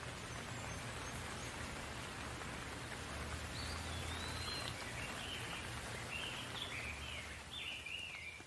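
Steady rain falling, with a bird calling in a series of short, quick chirps from about three and a half seconds in to the end.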